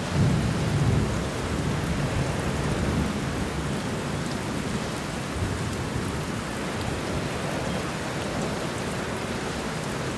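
Thunderstorm: steady rain with a low rumble of thunder that swells in the first second or so, then eases back under the rain.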